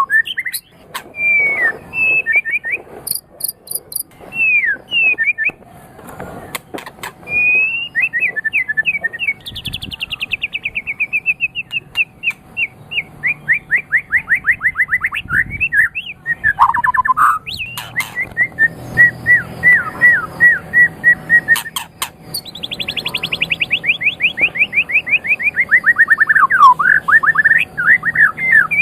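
White-rumped shama (murai batu) singing a loud, varied song. Whistled phrases alternate with long, fast trills of rapidly repeated notes, some sliding downward in pitch.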